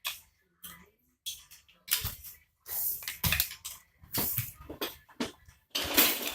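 Plastic Lego bricks clattering and clicking as they are handled and pressed together, in irregular clusters of sharp knocks and rattles.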